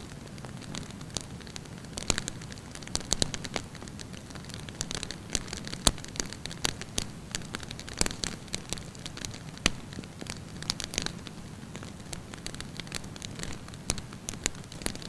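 Wood campfire burning with irregular crackles and sharp pops over a steady low rush of flame; the loudest pops come about six, eight and ten seconds in.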